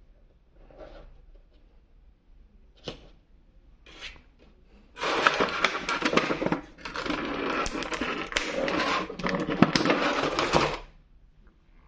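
Toy packaging being handled and opened: a few faint rustles and taps, then about five seconds in, several seconds of loud crackling and rustling of plastic and cardboard that stops shortly before the end.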